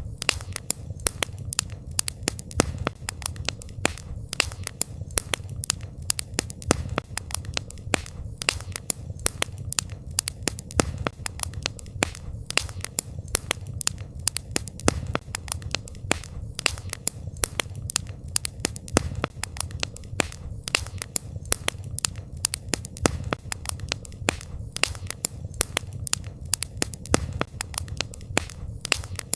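Wood fire crackling and popping, with many sharp irregular snaps over a low steady rumble of the flames.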